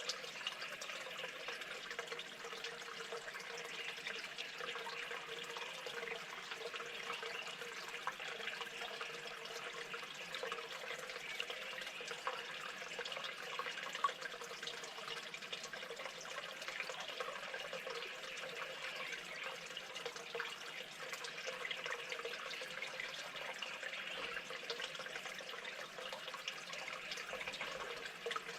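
Running water, a steady trickle that goes on without a break.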